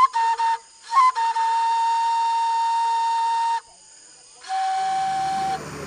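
A flute-like wind instrument playing: a couple of short notes, then one long held note, and after a brief pause a lower held note.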